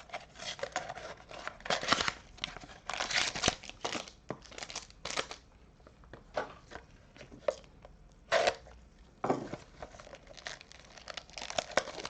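Trading card pack wrappers crinkling and tearing as packs are opened by hand, in irregular bursts with a quieter pause about halfway through.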